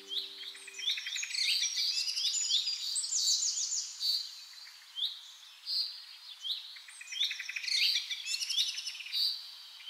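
Several songbirds singing and calling over one another: short chirps and fast trills, coming thick and overlapping through the whole stretch.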